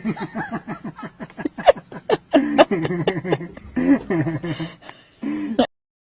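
A person's voice in short broken bursts, chuckling and laughing, cutting off shortly before the end.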